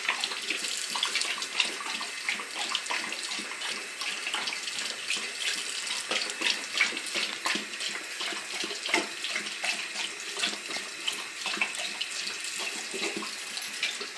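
Bathroom sink faucet running, a steady stream of water splashing into the basin.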